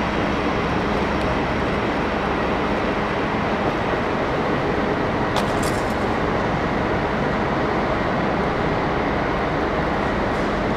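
Train running on the tracks: a steady, dense rumble with a faint hum in it, and a brief high squeal about five and a half seconds in.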